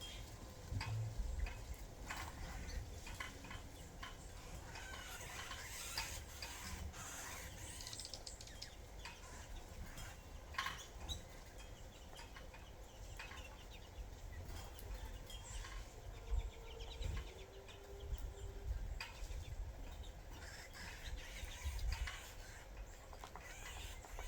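Small birds feeding on sunflower seeds: faint scattered taps and pecks with a few brief high chirps, over a steady low rumble.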